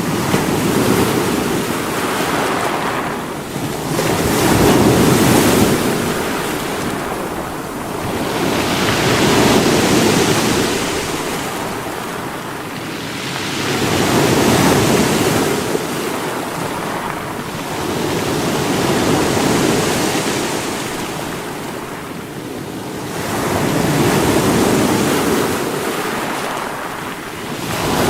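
Sea waves breaking against rocks, surging about every four to five seconds over a constant wash of surf.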